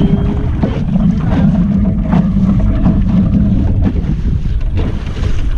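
Steady wind rumbling on the microphone aboard a small sailboat under way, with water noise and a few short knocks or splashes through it.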